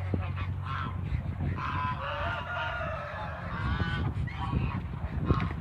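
Geese honking in a series of calls, busiest in the middle, over a low hum.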